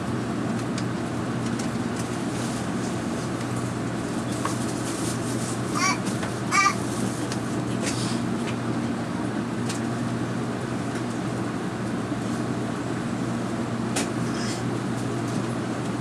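Steady low hum of a Tokaido Shinkansen train at the station platform, with scattered faint clicks and two short chirps about six seconds in.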